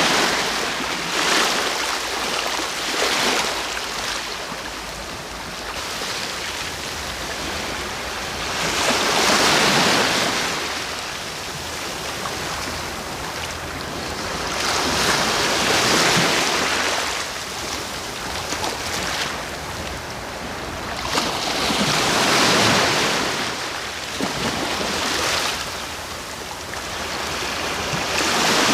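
Sea waves breaking and washing on the shore, a steady rush that swells into a louder surge about every six to seven seconds.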